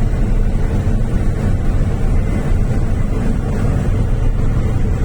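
Truck engine running steadily with road noise while cruising on a highway, a constant low rumble.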